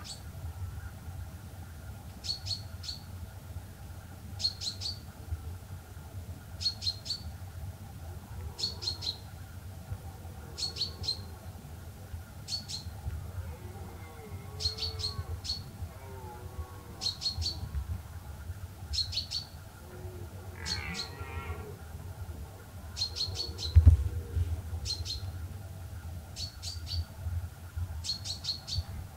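A small bird repeating a short, high call of three or four quick chirps about every two seconds, over a low rumble, with one dull thump about three-quarters of the way through.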